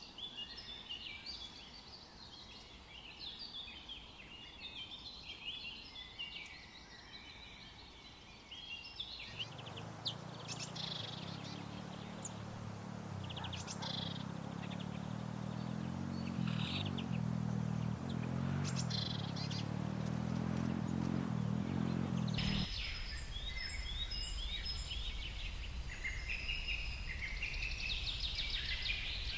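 Small birds chirping in the background, many short, quick high notes. From about nine seconds in until about twenty-two seconds, a louder low droning hum takes over and then cuts off suddenly.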